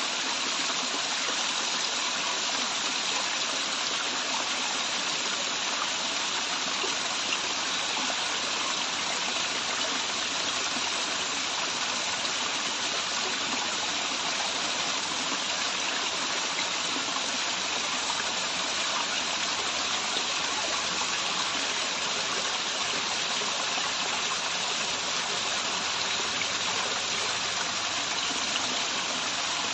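Waterfall and its stream of running water rushing steadily, an even hiss with no changes.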